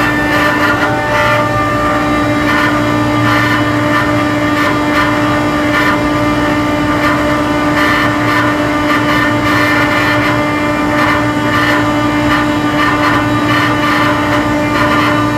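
A machine running steadily with a constant hum and higher whining tones, with scattered clicks and rattles over it.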